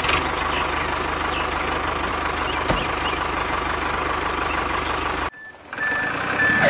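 A steady machine-like running sound that cuts off sharply about five seconds in, followed by three short high beeps.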